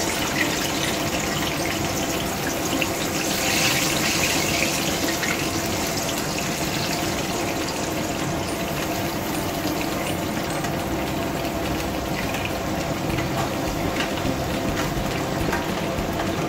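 Boiled winter melon (petha) pieces sizzling steadily in hot ghee in a wok, a little louder around four seconds in, with the light scrape and tick of a spatula stirring them.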